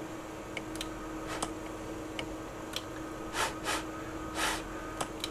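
Steady electrical hum with a few faint clicks, and three short breathy puffs of hiss between about three and four and a half seconds in.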